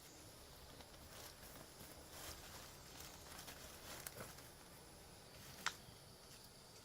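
Faint rustling and scraping in soil and leaf litter with scattered light knocks, and one sharper click a little before the end, as a large wild Stephania tuber is dug out and handled.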